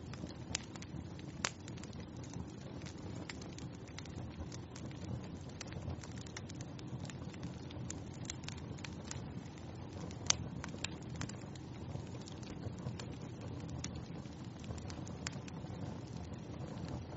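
Wood fire crackling in a fireplace: frequent sharp pops and snaps over a steady low rumble of the flames, with one louder pop about ten seconds in.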